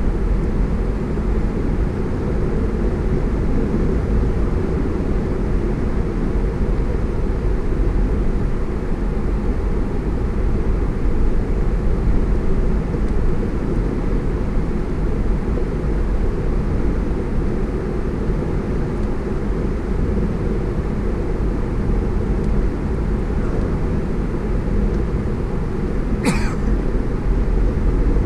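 Steady road and engine noise of a car driving, heavy in the low end. One brief sharp sound cuts in near the end.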